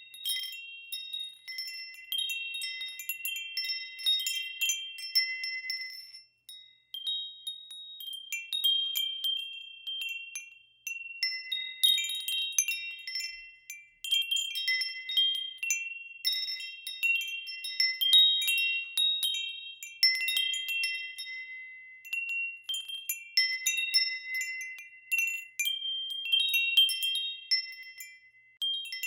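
Wind chimes ringing, struck at irregular moments so that several high tones overlap and die away, with brief lulls between clusters of strikes.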